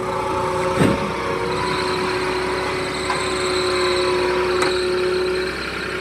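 Heavy-vehicle engine running steadily at constant speed, with a short knock a little under a second in.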